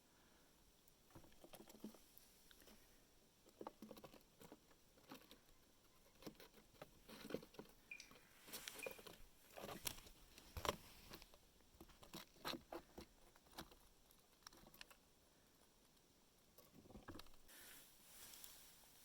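Red squirrel chewing peanuts: quiet, irregular crunches and clicks, busiest in the middle stretch.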